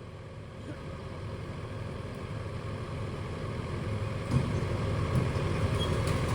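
Heavy machinery engine running, growing steadily louder, with a couple of light knocks after about four seconds.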